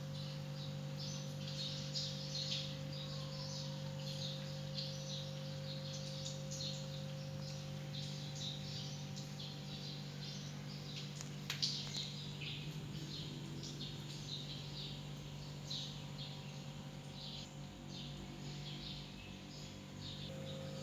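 Birds chirping in short, frequent calls over a steady low hum, with one sharp click about halfway through.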